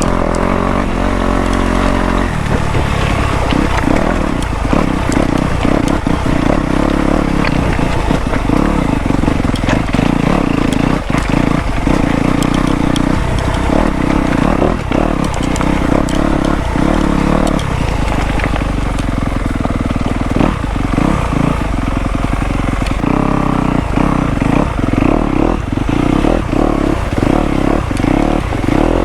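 Dirt bike engine running under load over a rocky trail, its revs rising and falling a few times, with rocks clattering and knocking under the tyres.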